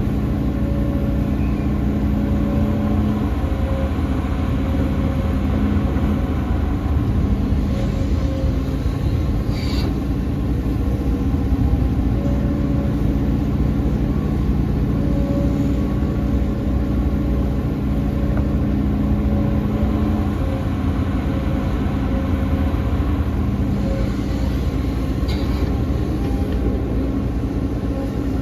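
Excavator's diesel engine running steadily, its pitch shifting a little as it works, with a short sharp clank about ten seconds in and another near the end.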